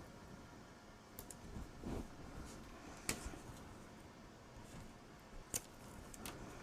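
Faint paper-crafting handling sounds: a few light, sharp clicks and taps of cardstock and tape being handled on a table, the sharpest about three seconds in and again after five seconds.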